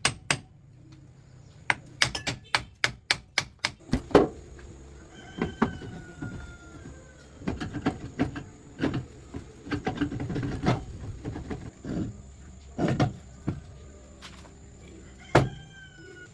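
Hammer strikes in a quick even run, about four a second, then irregular knocks and clatter of work on metal parts. A steady high-pitched insect buzz and a few short chirps run underneath.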